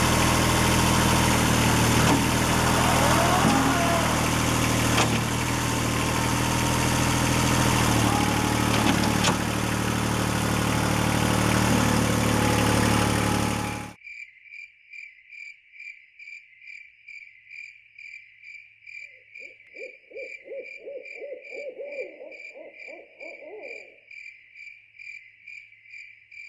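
Kubota tractor's diesel engine running steadily, cut off suddenly about halfway through. After that, crickets chirp in a steady pulsing rhythm, and a few seconds later a short run of rapid hoots sounds over them.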